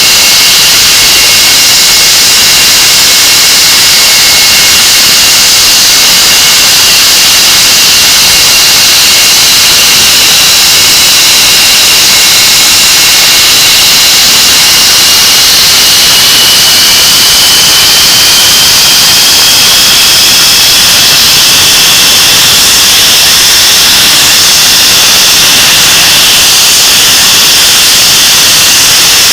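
English Electric Lightning's Rolls-Royce Avon turbojet engines running at a ground run: a very loud steady roar and hiss with a high whine. From about halfway through, the whine climbs gradually in pitch as the engines are brought up to power.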